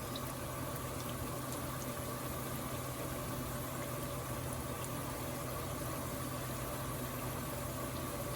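Pakoras deep-frying in hot oil: a steady, even sizzling hiss over a low steady hum.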